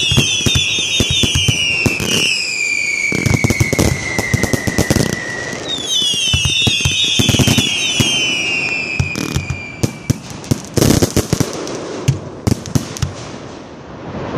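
Whistling fireworks rockets going off several at a time, their shrill whistles falling in pitch, in two waves about six seconds apart. Rapid crackling and sharp bangs run throughout, with a burst of louder bangs near the end.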